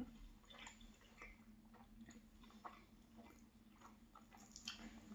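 Faint close-up chewing of a pastry, with scattered small mouth clicks over a faint steady low hum.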